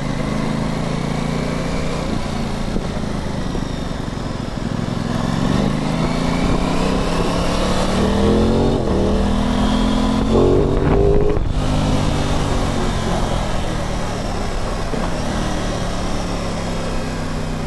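Aprilia Tuono 660's parallel-twin engine pulling under acceleration while ridden, with road and wind noise. Past the middle the revs climb, drop back, climb again and break off sharply as a gear is changed.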